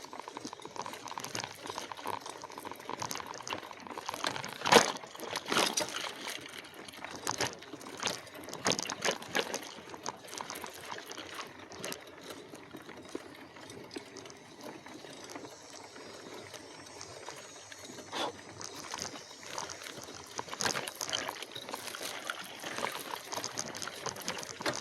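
An e-bike rolling along an unpaved trail: an irregular crackling and crunching from the tyres with knocks and rattles, and a sharp knock about five seconds in.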